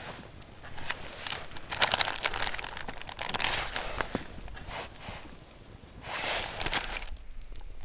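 Intermittent rustling and crinkling of something being handled, in several short bursts, going quieter near the end.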